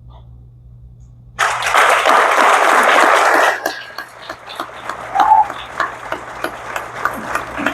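Audience breaks into applause about a second and a half in, loud and dense at first, then thinning after a couple of seconds to scattered individual claps.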